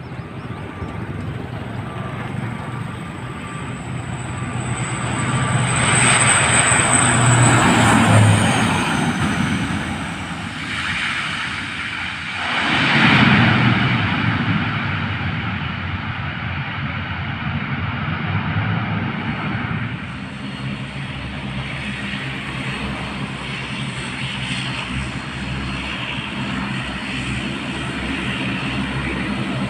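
Airliner engines running loud as the aircraft passes close. A high whine drops in pitch about eight seconds in, and the sound swells again around thirteen seconds before settling to a steadier engine noise.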